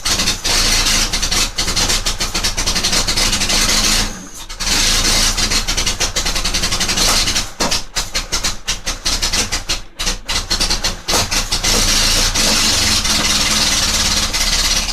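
Zhiguli (VAZ) engine in a homemade buggy running loudly and unevenly on its first start-up, with brief dips in sound about four and ten seconds in.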